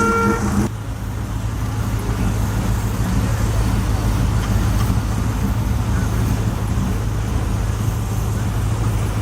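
A car horn sounding, which cuts off abruptly under a second in, followed by a vehicle engine running with a steady low drone.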